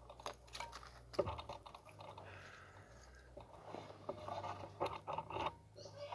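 Light wooden clicks, knocks and scrapes of a beehive being worked open and its comb frames handled, several sharp knocks among softer scraping.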